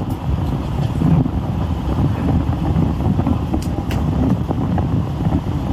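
Indian Railways train running along the track: a steady low rumble with a few sharp clicks about two-thirds of the way in.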